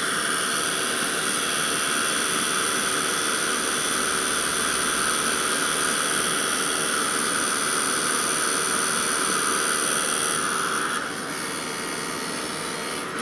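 Craft heat gun blowing steadily, its fan and heater giving a whooshing whine while it melts white embossing powder on a stamped image. The level dips slightly a little before 11 seconds in.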